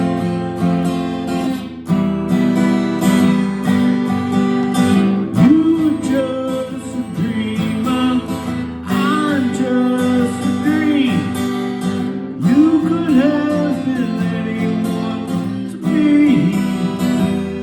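Acoustic guitar strumming chords in an instrumental break of a song, with a sliding melody line rising and falling over it several times.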